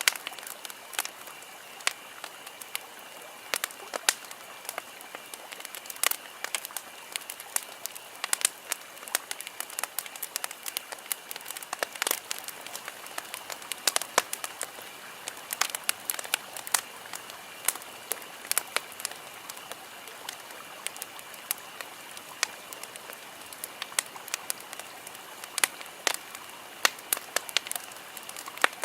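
Wood campfire crackling, with frequent sharp, irregular pops and snaps over a low steady hiss of burning.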